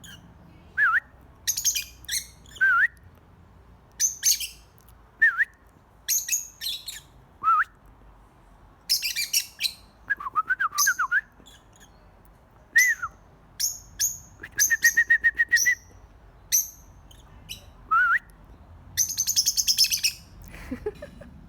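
Pet birds chirping and calling in short bursts: quick rising whistles, harsh scratchy calls, a rapid trill about halfway through and a longer raspy call near the end.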